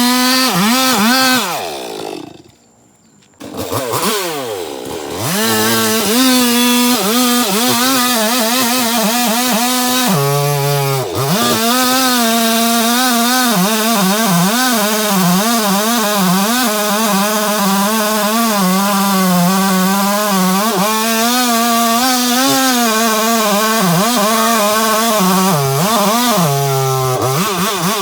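Chainsaw engine running at high revs while cutting wood, its pitch wavering under load. About two seconds in it winds down and goes nearly quiet, then picks up again. Later it drops briefly to idle twice before revving back up.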